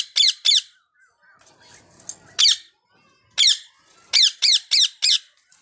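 Indian ringneck parakeet giving short, shrill calls, each a quick downward sweep. Two come near the start, single calls follow about two and three and a half seconds in, then four in quick succession near the end.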